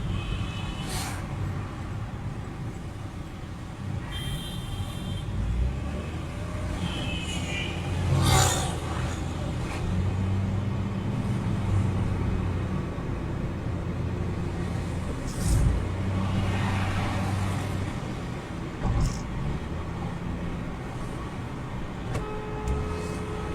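Road traffic noise with vehicle engines running steadily. There are a few short high tones and a louder passing swell about eight seconds in.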